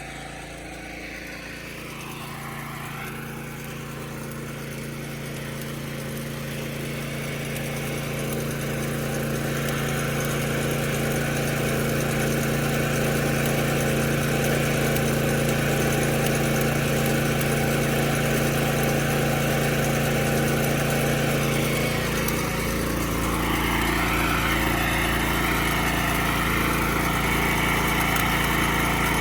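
Small engine running steadily at a constant pitch, growing louder over the first ten seconds and changing tone about three quarters of the way through.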